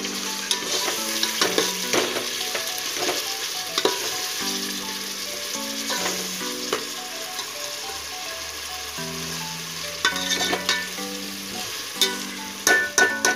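Chopped tomatoes and onions sizzling in hot oil in an aluminium pot, stirred with a metal spoon that scrapes and clicks against the pot. The spoon clicks come thicker and louder in the last few seconds.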